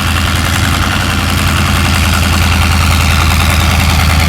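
Tractor engine running steadily at idle, a loud, deep, even drone that grows slightly louder toward the end.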